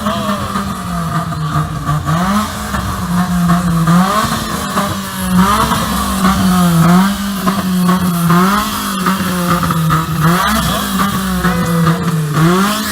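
Car engine revved repeatedly, its pitch climbing and dropping about once a second.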